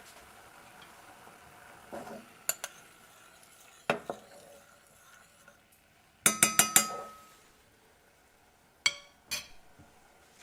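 Kitchen utensils clinking against a cooking pot: scattered sharp clinks, then a quick run of four loud ringing clinks a little past halfway, and two more near the end.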